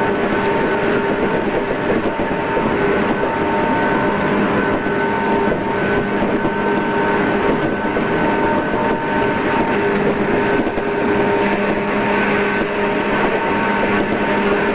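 JR East 113 series electric train heard from inside the car while running at a steady speed. The rolling noise and motor hum hold an even level, and the motor's pitch neither rises nor falls. The sound is a dull, cassette-tape recording.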